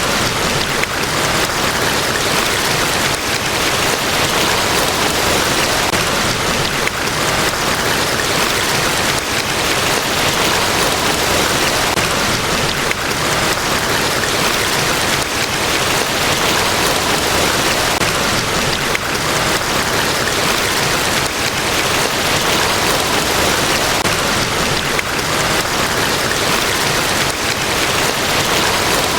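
Large waterfall, Niagara Falls: a steady, even rush of falling water.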